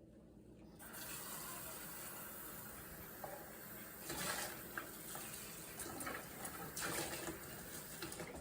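Water from a tap running into a sink, starting about a second in, as pet food bowls are washed under it; the splash swells louder a couple of times as the bowls are moved in the stream.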